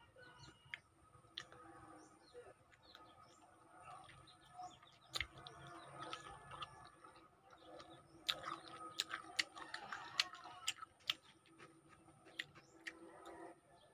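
Wet chewing and lip-smacking clicks of someone eating raw lemon slices, busiest from about eight to eleven seconds in. Birds chirp in the background.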